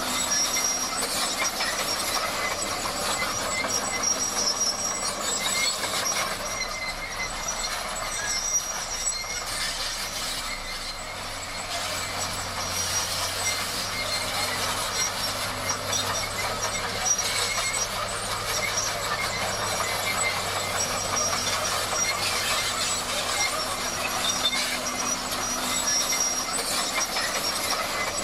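Crawler bulldozer working, its steel tracks squealing and clattering over the steady hum of the diesel engine, with a thin high-pitched whine held throughout.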